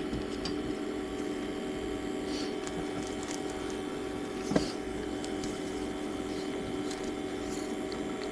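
Steady mechanical hum of running equipment, with one sharp click about four and a half seconds in.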